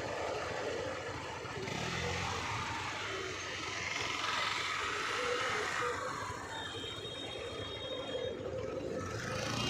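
Steady road and traffic noise: vehicle engines with tyre and wind rush, rising and falling gently.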